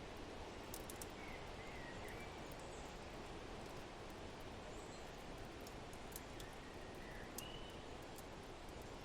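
Forest and fireplace ambience: a steady rush of wind under scattered small fire crackles, with a few faint bird chirps about a second in and again near seven seconds.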